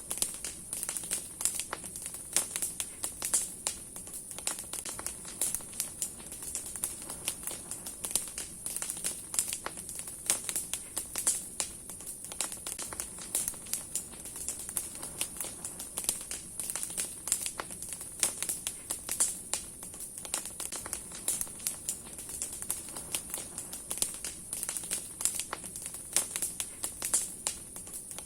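Large wood bonfire of branches burning strongly, crackling with dense, irregular snaps and pops under a steady high hiss.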